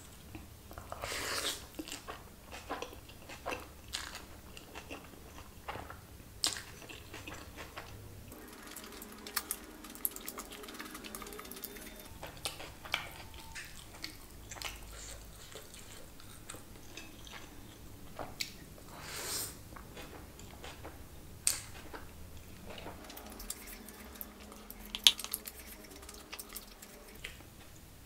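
Chewing and mouth sounds of a person eating chicken biryani by hand: soft smacks and small clicks scattered throughout, with one sharper click about three seconds before the end.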